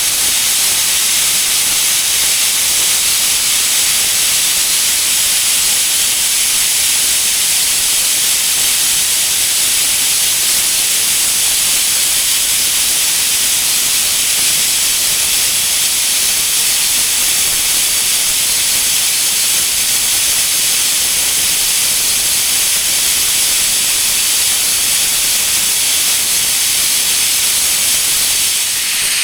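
Class 01 express steam locomotive 01 066 letting off steam: a loud, steady hiss that does not let up.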